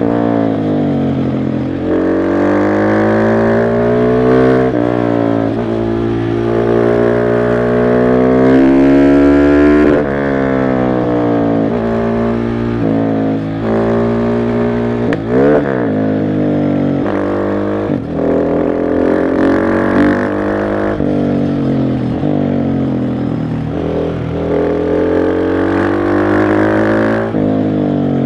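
KTM 690 SMC R's single-cylinder engine pulling hard on the road, its pitch climbing and then dropping back at each gear change, again and again. About halfway through there is one quick sharp rev up and down.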